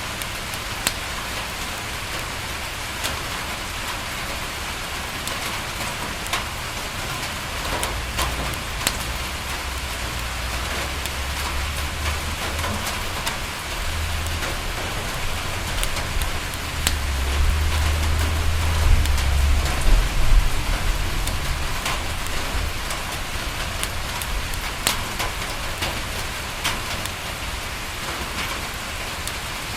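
Steady rain on a window, with scattered sharp ticks and crackles. A low rumble builds from about a quarter of the way in, is loudest around two-thirds through, then fades.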